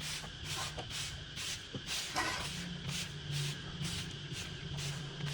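Overgrown grass and weeds rustling in quick strokes, about two swishes a second, as the weeds are cleared, over a low steady hum.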